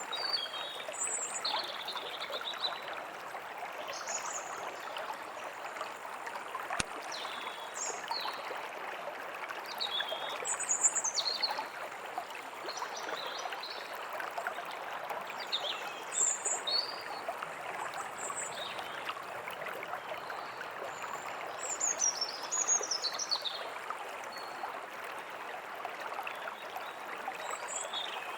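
A stream running steadily, with small birds chirping and calling in short high phrases throughout. One sharp click sounds about seven seconds in.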